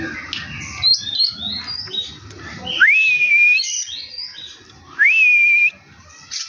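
Oriental magpie-robin (kacer) singing: a quick run of varied high chirps, then two long clear whistles about two seconds apart, each sliding up and then holding steady.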